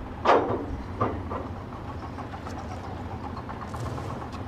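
Heavy truck's diesel engine idling with a steady low rumble, with a few sharp clunks about a third of a second and a second in as planks are laid to widen the float's floor.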